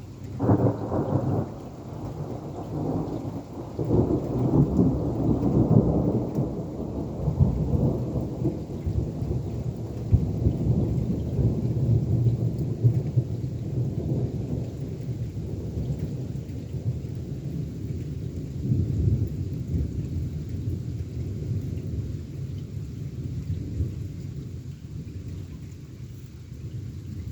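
Thunder from a crawler cloud-to-cloud lightning flash. A sharp crack comes about half a second in, then a long rolling rumble swells again around four to six seconds and slowly dies away.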